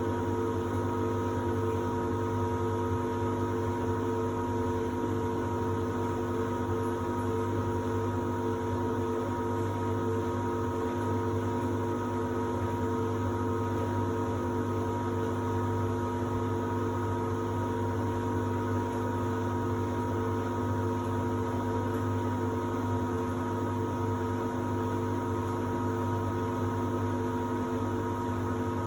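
Samsung WD70T4047CE washer-dryer running through its drying cycle: a steady, even hum with several fixed tones from its motor and drying fan.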